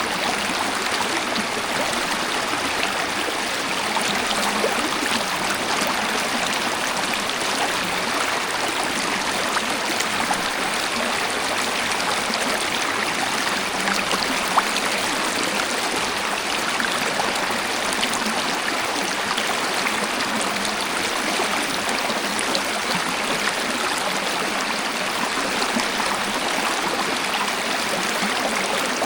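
Waterfall and flowing stream water rushing steadily, with small splashes and trickles and a single brief louder splash about halfway through.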